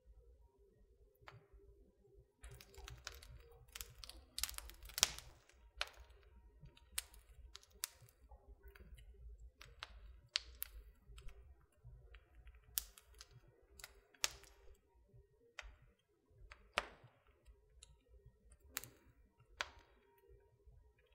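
Wood fire in a fireplace crackling: irregular sharp pops and snaps from the burning logs, a cluster of them a few seconds in, over a faint low rumble of the flames.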